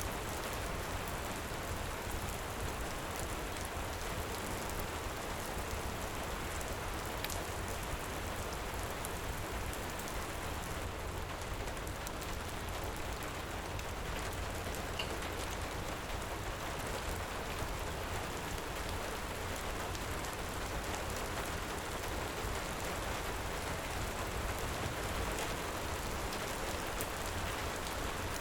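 Heavy rain falling steadily, with a few faint crackles from a wood fire.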